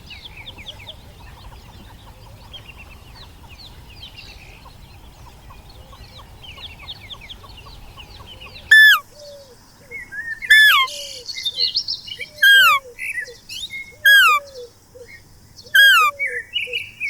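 Many small birds chirping faintly over a low rumble. About halfway through it changes abruptly to a louder bird call repeated every second and a half or so, each a sharp falling whistle with a run of lower, quieter notes.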